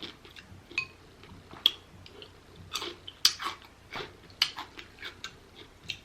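Close-miked chewing and wet mouth smacks from a person eating rotisserie chicken, as irregular soft clicks with a few sharper smacks.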